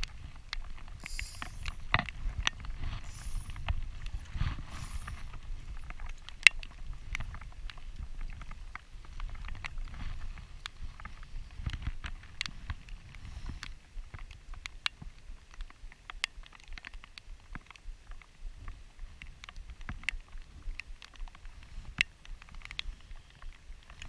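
Rain falling on the camera in sharp, irregular ticks, over a low rumble of wind on the microphone. In the first five seconds come a few short hissing swishes of fly line being stripped and pulled through the rod guides.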